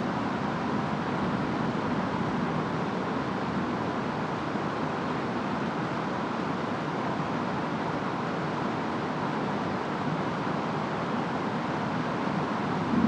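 Steady rain and wind from a storm, an even rushing noise with no distinct thunderclap.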